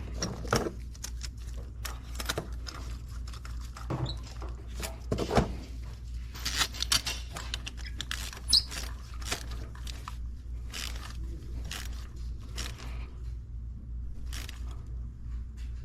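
Hand tools working on spark plugs in an engine bay: irregular metallic clicks, taps and short scrapes, busiest around the middle, over a steady low hum.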